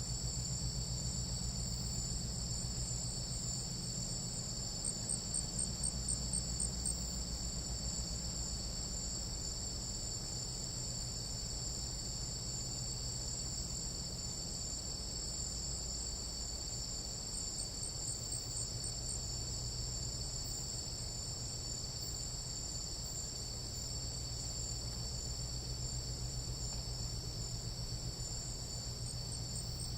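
Chorus of tropical night insects trilling steadily at a high pitch, with a low steady hum underneath. A faster pulsing call rises above the chorus about five seconds in, again past the middle, and near the end.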